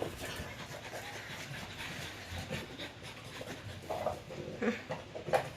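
A French bulldog panting.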